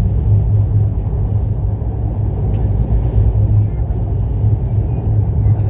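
Passenger train running at speed, heard from inside the carriage as a steady low rumble, with faint voices in the background.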